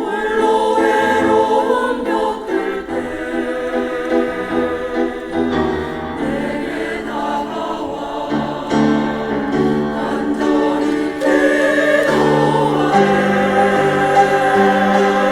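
Church choir singing a hymn in Korean, the voices holding long sustained notes that change every second or so.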